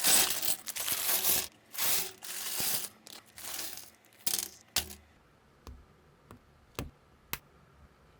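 Plastic building-block pieces and their packaging rustling and rattling in three or four bursts, then about six single sharp clicks of bricks being pressed together.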